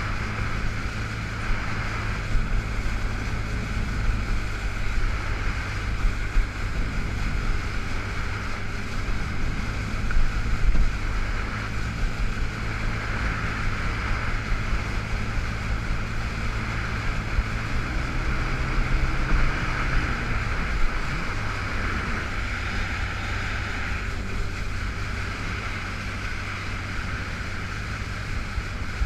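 Yamaha FX Cruiser H.O. jet ski engine running at a steady cruising speed, stuck in its reduced-power low mode, over a continuous rush of water spray and wind on the microphone. The engine's pitch rises slightly about eighteen seconds in, dips briefly near twenty-one seconds, then settles back.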